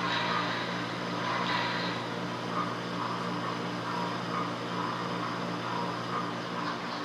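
Sound-equipped HO scale model steam locomotive standing at idle, its speaker giving out a steady hum with a hiss over it.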